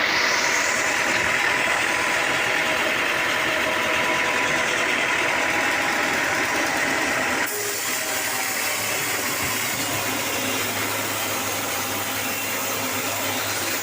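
Sawmill machinery running steadily, a loud, dense mechanical noise. About halfway through the sound changes suddenly to a somewhat different noise with a low steady hum underneath.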